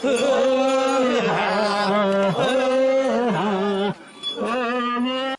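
A single voice singing a Korean funeral bier song (sangyeo sori) in long, wavering, drawn-out notes, with a brief break about four seconds in.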